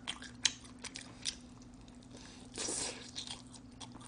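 Close-miked chewing of sauced smoked chicken: scattered wet mouth clicks and smacks, with a brief hiss about two and a half seconds in, over a faint steady hum.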